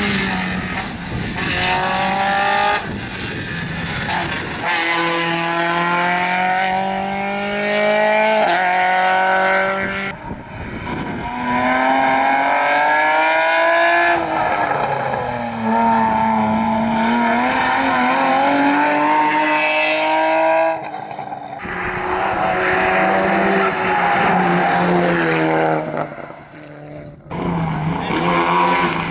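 Rally cars at full attack, engines revving hard up through the gears with quick drops in pitch at each shift. The sound changes abruptly several times, one car after another.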